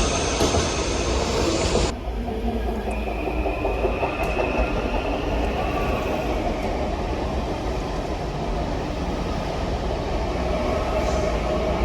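Train running through the station with a steady rumble of wheels on rails. A high hiss cuts off suddenly about two seconds in, and a thin high wheel squeal rises a few seconds in.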